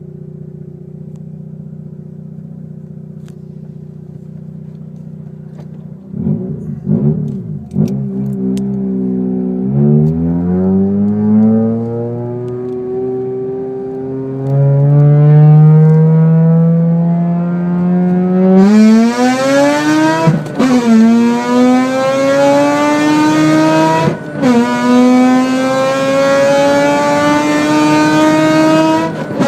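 Car engine idling steadily, blipped a few times, then accelerating hard. Its pitch climbs high, with two sudden drops at upshifts before climbing again.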